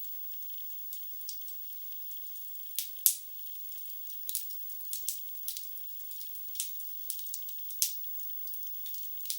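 Wood fire burning in a fireplace: irregular sharp crackles and pops of burning logs over a faint hiss, with the loudest pop about three seconds in.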